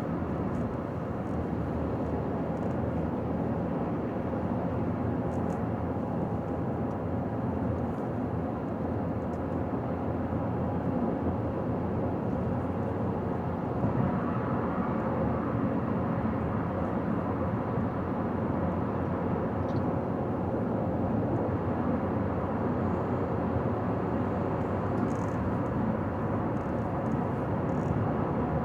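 A car travelling at highway speed, giving steady road and tyre noise with engine hum.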